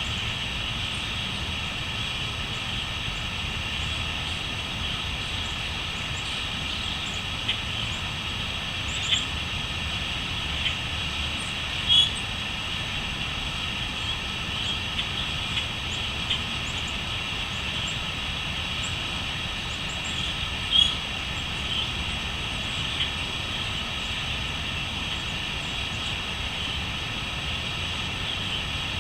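Steady, dense chorus of crickets chirping, with a few short bird calls breaking through, the loudest about twelve and twenty-one seconds in, over a low steady rumble.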